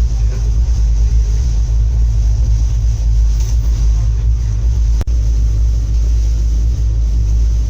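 Steady low rumble of a moving passenger train heard from inside the carriage, with a single brief click and dropout about five seconds in.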